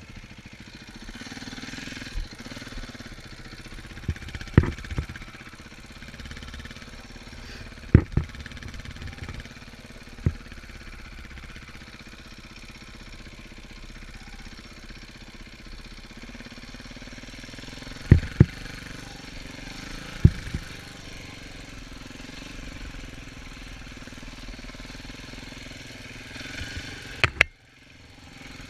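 Dirt bike engine running while being ridden off-road, with sharp knocks every few seconds. The sound drops out briefly near the end.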